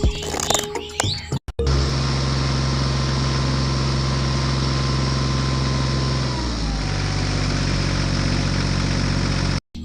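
An engine running steadily at idle. Its pitch steps down a little past the middle. A short stretch of music with bird chirps is heard in the first second or so before it cuts in.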